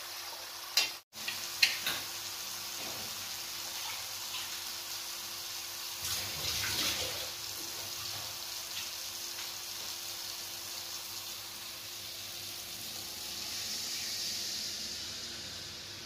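Spice paste sizzling in hot oil in a steel kadhai as it is stirred with a steel ladle, a steady frying hiss with two sharp ladle knocks about a second in.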